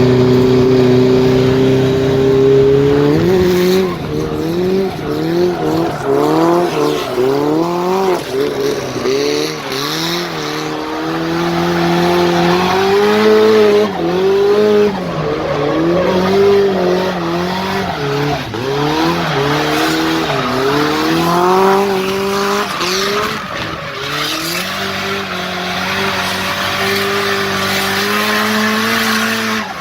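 Drift car's engine revving up and down repeatedly through a slide, with tyre squeal. It holds a steady pitch for the first few seconds, then swings up and down in quick cycles.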